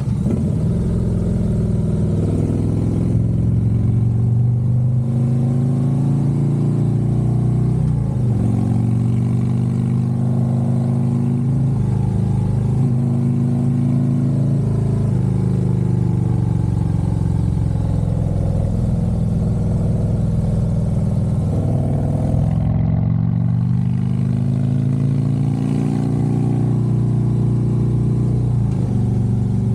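Harley-Davidson Road Glide's V-twin engine running under way on the road, its pitch climbing and falling back several times as the throttle opens and closes.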